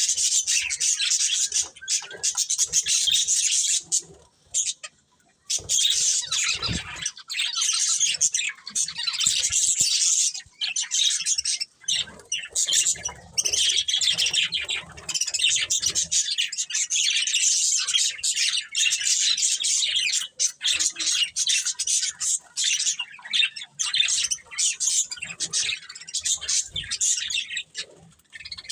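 A flock of budgerigars chattering and chirping continuously in quick, overlapping calls, with a brief lull about five seconds in.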